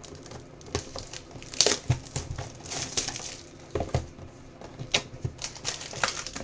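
Plastic wrapping on a trading card box being torn open and crumpled, with irregular sharp clicks and knocks as the box and packs are handled, and a longer stretch of crinkling about halfway through.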